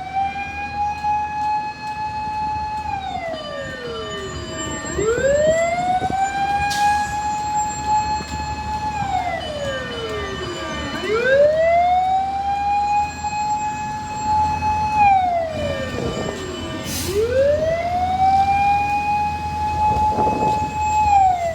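Fire truck siren wailing in long slow cycles: each rises quickly to a high held tone for about three seconds, then slides down, repeating about every six seconds.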